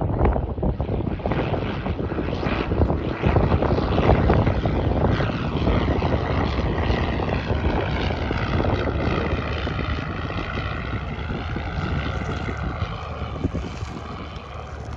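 Propeller airplane's engine passing close by, loudest about four seconds in, then slowly fading, its tone sweeping as it goes past.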